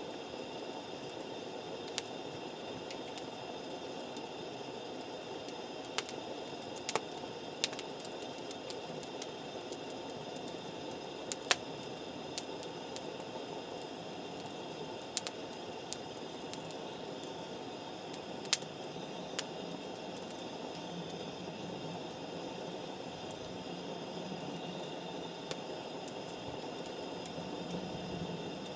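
Wood campfire burning: a steady hiss with scattered sharp pops and crackles, the loudest pair about eleven seconds in.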